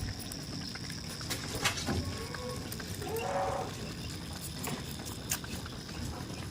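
A goat bleats once, briefly, about three seconds in, with scattered faint ticks and a steady high-pitched whine in the background.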